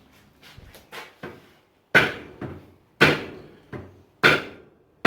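Heavy hammer blows on steel at the anvil, ringing briefly. A few light taps come first, then loud strikes begin about two seconds in at roughly one a second, with lighter knocks between some of them.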